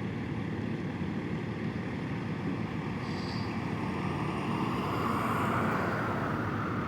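Steady low rumble of a vehicle engine running, with a hiss that swells and fades about five seconds in.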